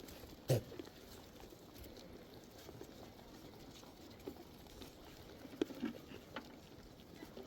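Scattered short knocks and thuds over a low, steady background: one sharp knock about half a second in, then a few lighter ones between five and six and a half seconds in.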